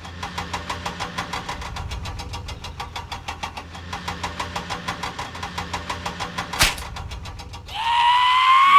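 Cartoon engine sound effect idling with a rapid, even putt-putt of about eight beats a second, with a single sharp knock about six and a half seconds in and a rising, horn-like tone near the end.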